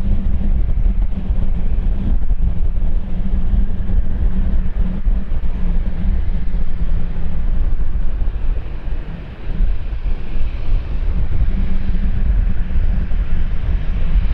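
Wind buffeting the microphone, a loud, uneven low rumble that dips briefly about nine seconds in. A faint higher rushing sound swells in the last few seconds.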